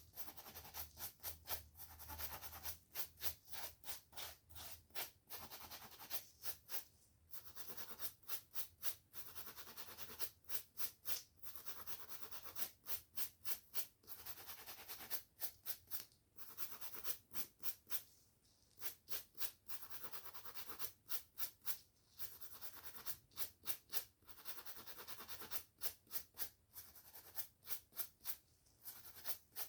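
Hair being brushed and a scalp being scratched, in runs of quick rubbing strokes, about two to three a second, with short breaks between the runs.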